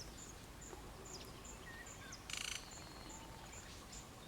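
Faint dawn chorus in bushland: a steady series of short, high ticking notes about two a second, typical of an insect, with scattered soft bird whistles. About two seconds in there is a short, louder rattling burst.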